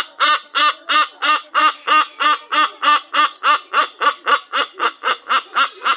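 A bird calling in a long, even series of short nasal notes, about three a second, each note arching up and down in pitch; the calls slow slightly and fade near the end.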